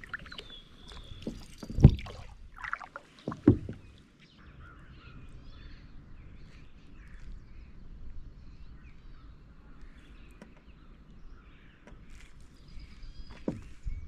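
Paddling a Wenonah Prospector 15 canoe: two sharp paddle strokes in the first few seconds and another near the end, with light water sounds between. Small birds chirp throughout.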